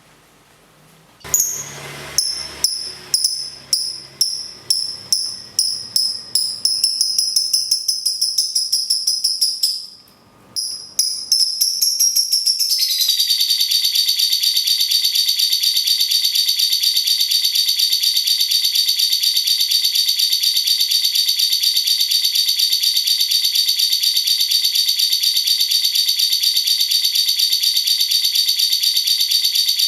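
Lovebird in its long 'ngekek' chatter: sharp high notes that quicken into a rapid series, then, after a brief break, a fast, unbroken rattling trill held steady for over fifteen seconds.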